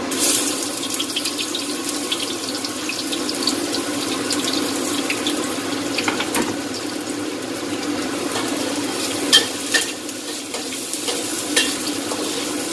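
Sliced onion, ginger and garlic hitting hot oil in a steel wok, sizzling sharply as they go in and then frying steadily. A metal spatula clicks and scrapes against the wok a few times in the second half.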